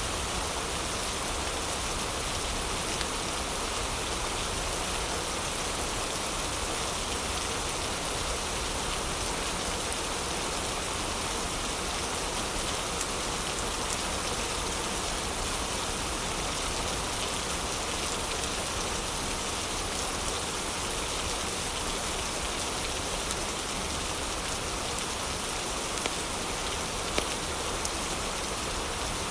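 Heavy, steady rain with scattered sharp crackles from a fireplace, a few louder pops near the end.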